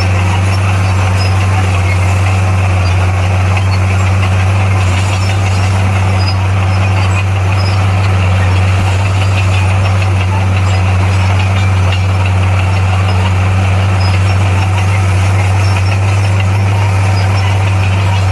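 Heavy construction machine's diesel engine running steadily with a constant deep hum, no revving or pauses.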